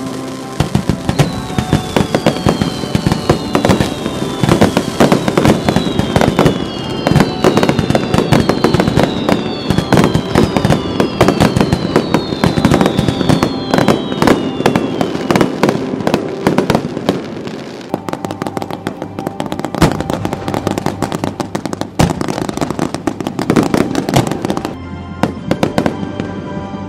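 Fireworks display: a dense barrage of bangs and crackling, with a run of falling whistles through the first half, thinning out near the end.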